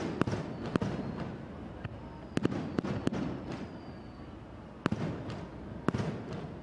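Aerial fireworks shells bursting in a series of sharp bangs, each followed by a rolling rumble. Several bangs come in a quick cluster about two and a half seconds in, with single bangs near five and six seconds.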